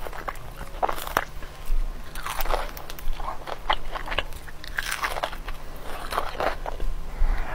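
A person biting and chewing crispy breaded fried chicken close to the microphone, with irregular crunches a few times a second.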